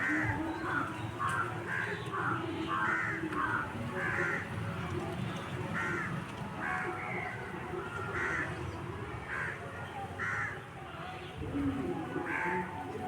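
Crows cawing again and again, short harsh calls coming about once or twice a second, over a steady low rumble.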